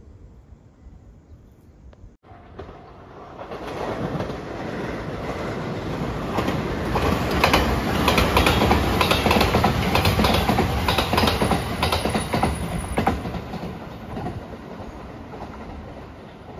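Rapid Marine Liner electric train passing at speed: its rumble builds up, peaks in the middle with a quick run of wheel clicks over the rail joints, then fades away.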